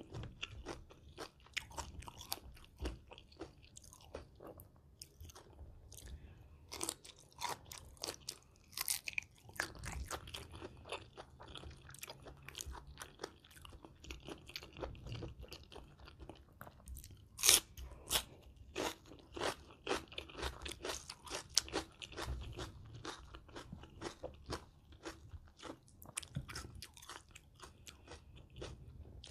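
Close-miked chewing and biting of a Thai spicy shrimp salad (yam kung) of raw and blanched shrimp: wet crisp crunches and mouth sounds in an irregular stream, with a few louder bites, the loudest about 17 seconds in.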